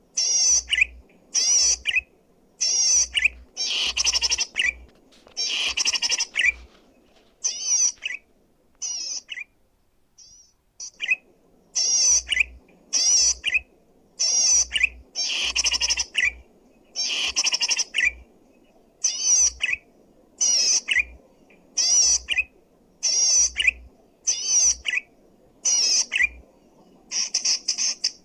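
Zitting cisticola (cici padi) singing: short bursts of sharp, high, rapidly repeated notes, about one burst a second, with a pause of a couple of seconds about a third of the way in.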